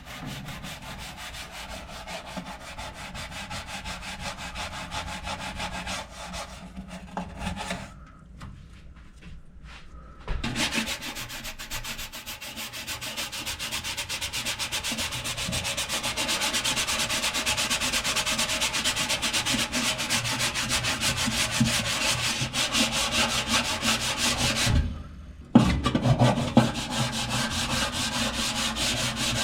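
Rapid, steady scrubbing at stubborn baked-on grease in a toaster oven, with a baking soda paste. It stops for a couple of seconds about eight seconds in, then comes back louder, with another brief stop near the end.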